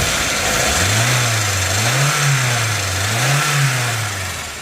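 Nissan GA16DS 1.6-litre carbureted 16-valve four-cylinder engine revved twice on the throttle, the note rising and falling each time before dropping back.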